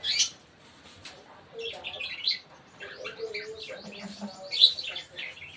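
Pet African lovebirds chirping in a quick, busy run of short, high chirps, with the loudest calls just after the start and about four and a half seconds in.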